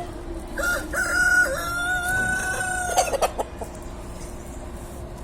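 A rooster crowing once, a long call lasting a little over two seconds that ends on a held steady note. A few short clicks follow just after it.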